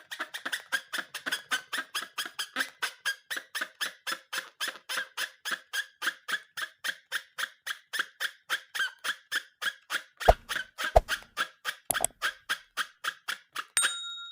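Rubber balloon squeaking in a fast, very even rhythm, about four to five squeaks a second. A few low thuds come in about ten to twelve seconds in, and a short ringing chime sounds near the end.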